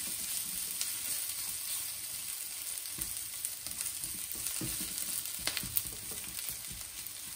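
Onions, chillies and ginger sizzling in oil in a non-stick frying pan while a silicone spatula stirs them, with a few scrapes of the spatula on the pan. The onions are being softened without colouring, the start of a tadka.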